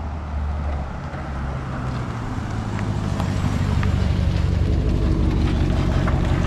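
Dodge Charger R/T's straight-piped 5.7 Hemi V8 exhaust running. Its note steps up about a second and a half in and it grows steadily louder.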